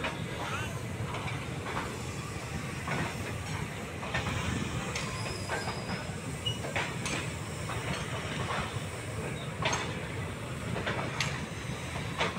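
Indian Railways passenger coaches rolling past: a steady low rumble of wheels on rails, with irregular sharp clicks and clacks as the wheels cross rail joints.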